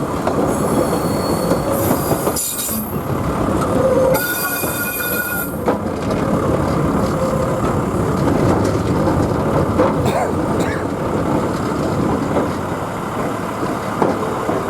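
Queensland Rail 2000 class rail motor running along the track with a steady rumble, its wheels squealing high and thin several times in the first six seconds.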